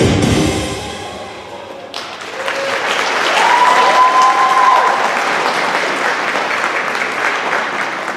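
Recital audience applauding, breaking out sharply about two seconds in as the music fades, with one drawn-out cheer rising above the clapping in the middle.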